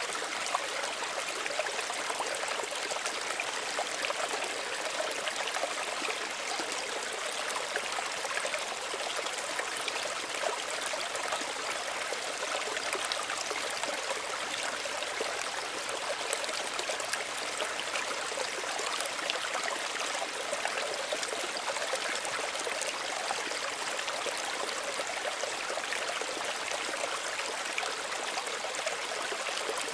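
Small stream running steadily over stones, a constant rush of water with fine trickling and splashing.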